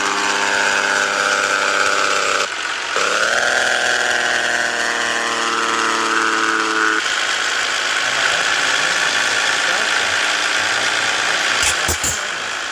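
Scania S 450 truck engine running under steady load, heard from inside the cab, with a short break in its note about two and a half seconds in. The note then fades into an even road noise, with a couple of clicks near the end.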